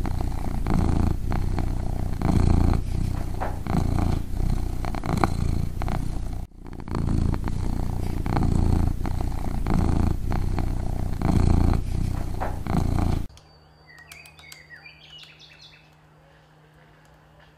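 Scottish Fold cat purring loudly and close up, the purr swelling and fading with each breath, with a brief break about six and a half seconds in. It cuts off suddenly about 13 seconds in, giving way to faint bird chirps.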